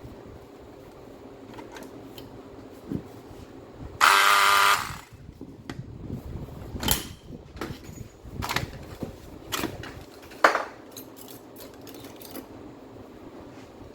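Makita M9510 angle grinder switched on for under a second, its motor whining, then let run down. Several sharp knocks follow as the tool is handled.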